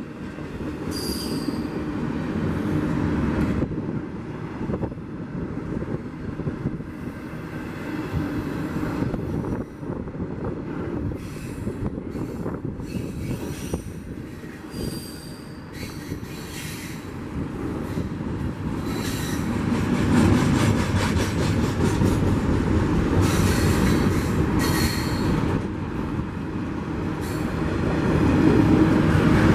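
Freight train of double-stack container well cars rolling past, a steady rumble of wheels on rail, with several brief high-pitched wheel squeals: about a second in, around the middle, and twice near the end. The rumble grows louder in the second half.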